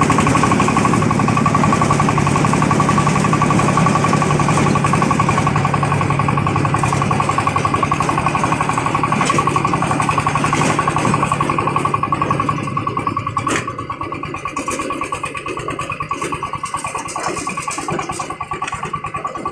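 A 24 hp Jiang Dong single-cylinder diesel engine runs with a strong, crisp, even firing. About two-thirds of the way through it drops to a quieter, lighter run.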